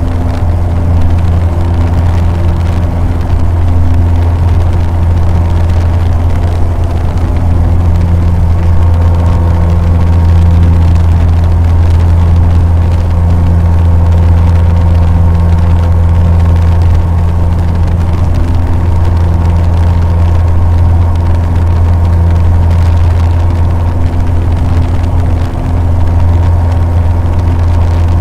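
A Cessna 150's four-cylinder Continental O-200 engine and propeller droning steadily in flight, with a strong low hum and a steady pitch throughout; the level dips briefly about 25 seconds in.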